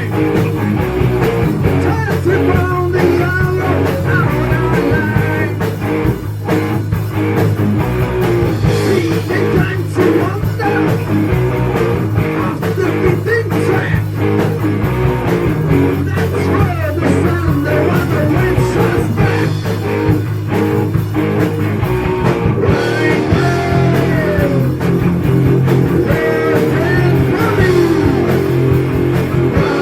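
Heavy metal band playing: electric guitars with notes bending in pitch, over bass and a steady drum beat.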